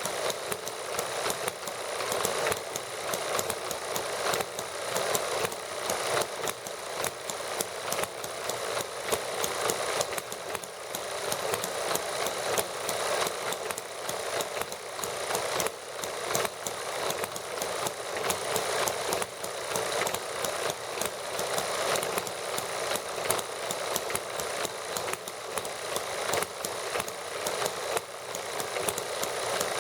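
Small model gasoline engines running steadily as they warm up, a fast, even chatter of firing strokes with little low rumble.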